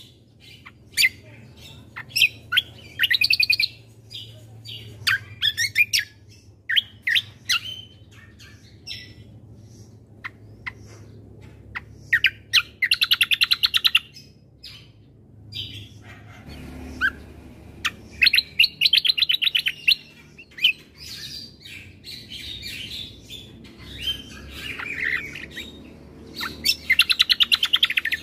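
Kecial kombo (cucak kombo) singing: fast trilled phrases a second or two long, repeated every few seconds, with short sharp chirps and whistled notes between them. A faint low hum lies underneath.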